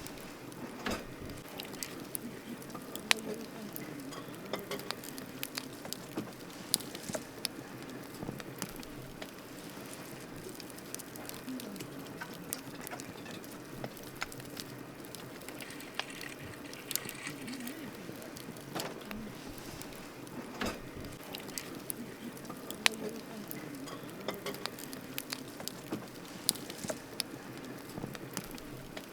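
Wood campfire crackling, with sharp irregular pops and a few louder snaps over a steady low hiss of burning.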